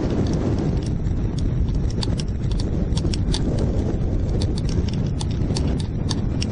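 Strong wind buffeting the microphone as a steady low rumble, with irregular sharp ticks and rattles several times a second.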